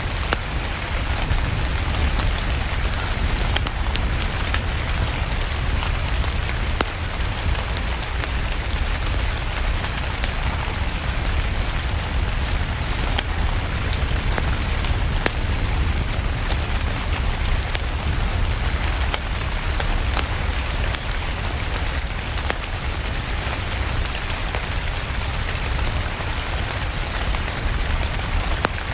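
Steady rain falling, with a strong low rumble underneath and scattered sharp crackles of a wood fire.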